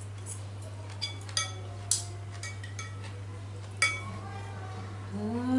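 Eating utensils clinking against bowls and plates during a meal: about eight sharp, briefly ringing clinks over a steady low hum. A short rising-and-falling vocal sound comes near the end.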